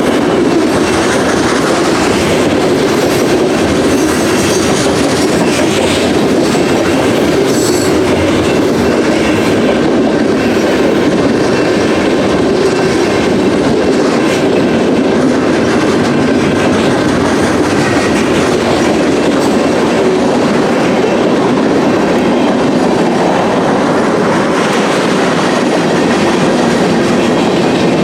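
Freight train cars rolling past on the rails: a loud, steady rumble and clatter of wheels on track.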